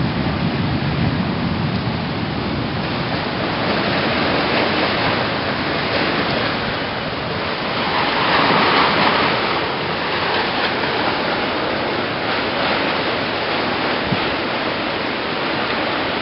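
Thunderstorm rain and wind making a steady rushing hiss, swelling louder about eight seconds in.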